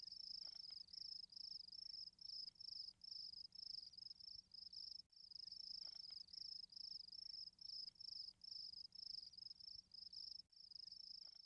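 Faint cricket chirping: a high, even pulse of about three chirps a second.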